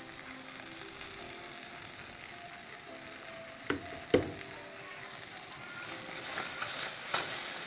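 Chopped onion and tomato masala sizzling steadily in oil in a kadhai. A wooden spatula knocks sharply against the pan twice, about four seconds in, and stirring makes the frying louder near the end.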